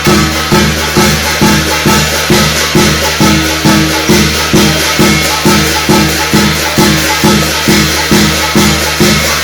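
Korean shamanic gut ritual percussion: a drum beaten in a steady, even rhythm, a little over two strokes a second, under constant jingling metal.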